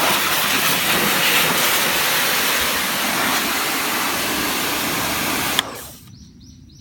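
High-pressure washer jet spraying onto a spinning knobby off-road motocross tyre, the tread blocks chopping the spray into a loud, steady engine-like rush. It stops suddenly with a click about five and a half seconds in.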